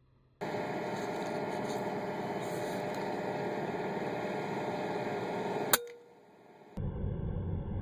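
One sharp crack of an air rifle shot about six seconds in, over steady rushing background noise that starts and changes abruptly.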